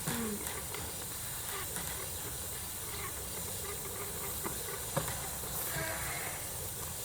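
Steady hissing background noise in a sheep pen, with one faint, short sheep bleat about six seconds in.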